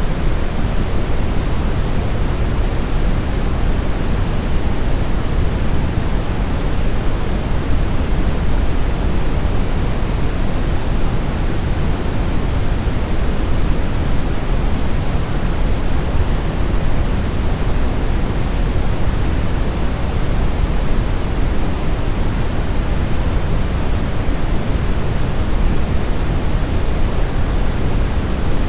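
Brown noise: a steady, unchanging hiss-rumble with most of its weight in the deep low end, thinning out toward the highs.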